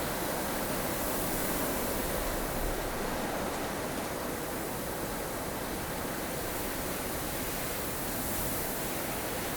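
Strong wind of a blustery snow storm, a steady rushing hiss that swells gently in its upper range now and then.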